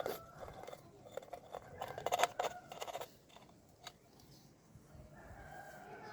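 A quick run of sharp clicks and snips from small hand tools working on craft parts, loudest about two seconds in, then a few scattered clicks.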